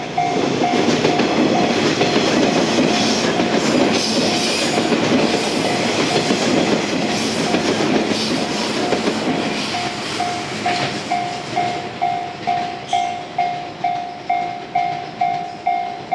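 JR electric multiple-unit train passing close by, its wheels clattering over the rail joints, fading after about ten seconds. Throughout, a railway level crossing bell rings steadily about twice a second, becoming the main sound once the train has gone.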